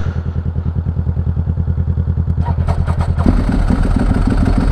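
Ducati 1098's V-twin engine idling with an even, lumpy beat of about ten pulses a second. A few sharp clicks come about two and a half seconds in, and just after three seconds the engine note picks up and fills out.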